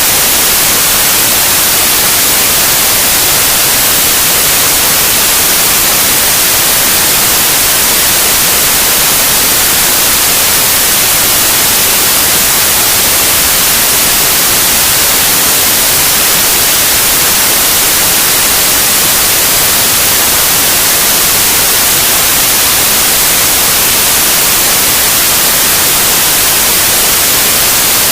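Loud, steady white noise: an even hiss without changes.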